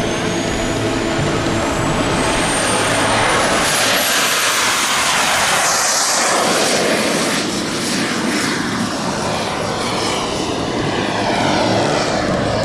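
Giant-scale radio-controlled model airplane taking off: its motor and propeller run with a high whine that rises in pitch over the first few seconds as it throttles up, then holds steady.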